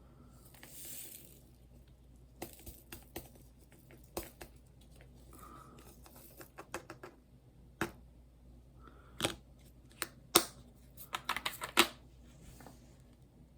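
A scattered run of sharp, light clicks and taps from small hard objects being handled close by, with a quick flurry of them near the end. A brief hiss about a second in.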